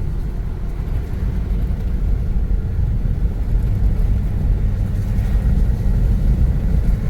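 Steady low rumble of a car driving along a winding road, heard from inside the cabin: engine and road noise with no sudden events.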